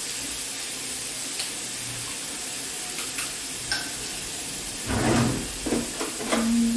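Diced sausage, bacon, chickpeas and banana sizzling steadily in oil in a frying pan over a gas flame. A few faint clicks come through the sizzle, and several louder knocks follow in the last two seconds.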